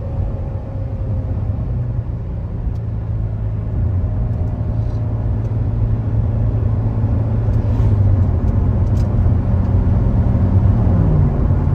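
Supercharged LT4 V8 of a C7 Corvette Z06 with a BTR Stage 2 camshaft, running steadily at low revs with a low rumble. It grows a little louder partway through, and the pitch rises slightly near the end.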